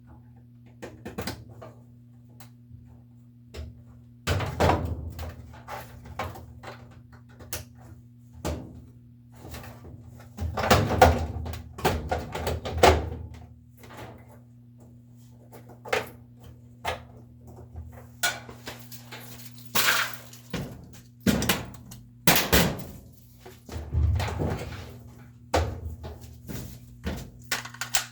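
Irregular clunks, knocks and clicks of top-load washer parts and tools being handled during a tub replacement, with a few heavier thunks, over a steady low hum.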